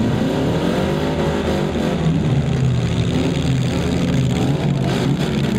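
Several four-cylinder demolition derby cars revving their engines, pitch rising and falling as they manoeuvre and ram, with a few impact knocks toward the end.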